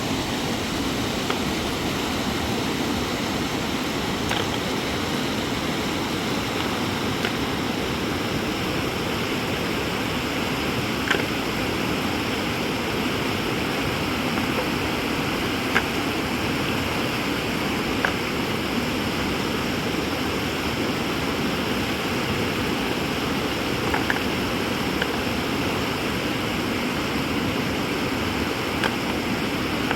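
River water rushing steadily, with a few faint sharp ticks scattered through it.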